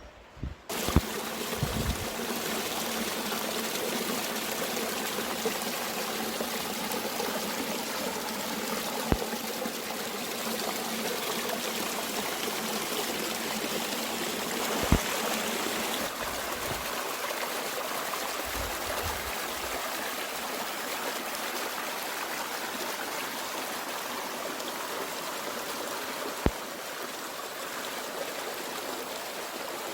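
Mountain stream running steadily, starting just under a second in after a quieter rustling passage, with a few brief sharp clicks scattered through it.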